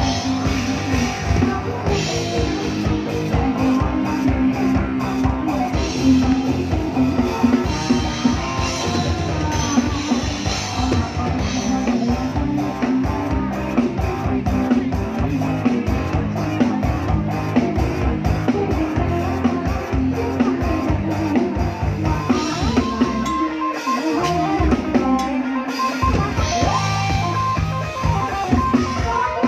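Live band music with drum kit, guitar and bass playing steadily. The bass and drums drop out briefly a little past the middle, then come back in.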